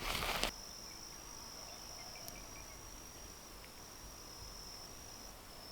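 A steady, high-pitched insect trill, cricket-like, running unbroken over quiet outdoor background. It starts after a short burst of rustling noise that cuts off sharply about half a second in.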